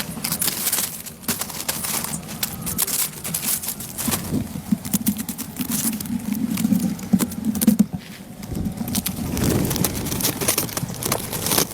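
Irregular knocks and clicks over a low rustling noise.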